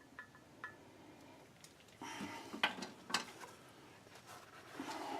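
Small metal parts being handled on a workbench: some rustling with a few light clinks, the two sharpest about two and a half and three seconds in.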